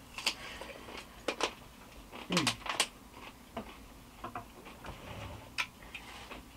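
A person eating close to the microphone: chewing with scattered wet mouth clicks and smacks at an uneven pace, and a short low hum with falling pitch a little over two seconds in.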